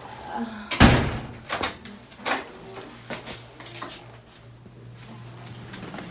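A door banging shut with a loud thump about a second in, followed by a few lighter knocks and clicks.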